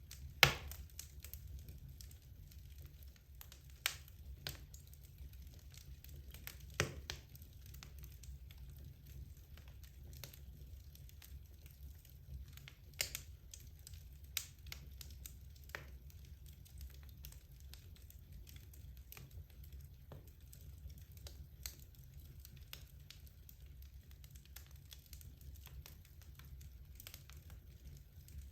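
Wood fire burning in a fireplace: irregular sharp crackles and pops over a low steady rumble, with the loudest pop just after the start and a few more strong ones scattered through.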